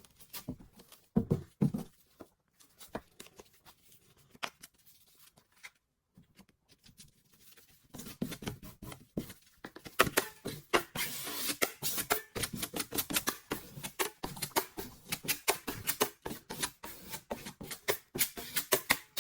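Hand tool scraping across a drywall patch in short, quick strokes: a few scattered strokes at first, then a dense run of fast scrapes from about eight seconds in.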